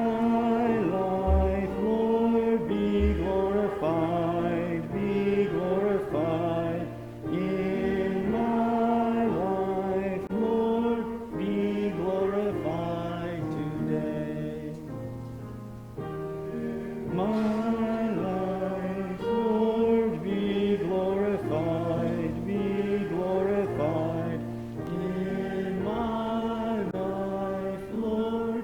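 A church congregation singing a hymn together, the sung notes held and moving from note to note.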